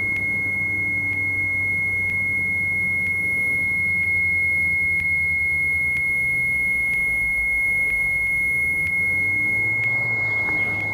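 Diamond DA42 Twin Star's stall warning horn sounding as one steady high tone over the low drone of both engines at idle, the sign that the aircraft is at the edge of a power-off stall. Near the end the engine note rises as power comes back in for the recovery.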